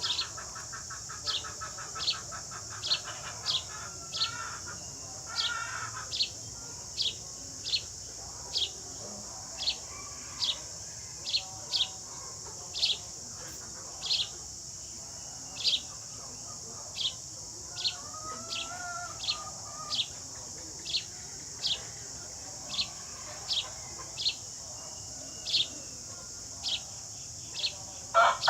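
Sparrow chirping: short single high chirps repeated evenly, about one and a half a second, over a steady high hiss, with fainter lower calls in between.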